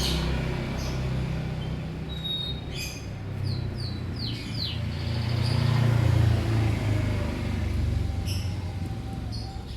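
Lovebirds chirping: short high chirps scattered throughout, with a run of quick falling chirps about four seconds in, over a loud low rumble.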